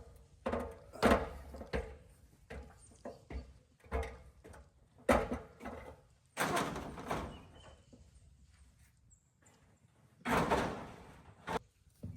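Irregular knocks, thuds and scraping from handling hard objects, with the loudest thuds about a second in, about five seconds in, and around ten and a half seconds in.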